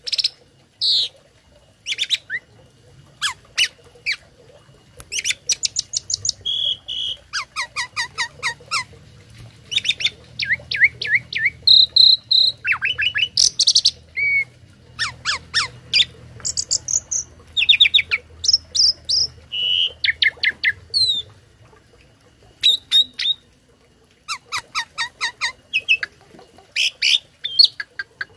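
Asian pied starling (jalak suren) singing a long, varied song: rapid runs of repeated chattering notes, sharp whistles and squawks, packed with copied phrases.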